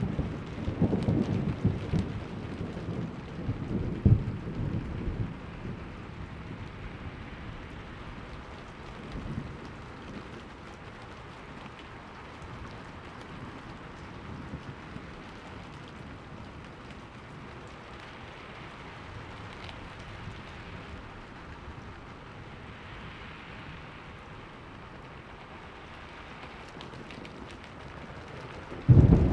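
Thunderstorm: steady rain falling with rolling thunder. A deep rumble dies away over the first five seconds, a faint one comes about nine seconds in, and a loud rumble starts suddenly near the end.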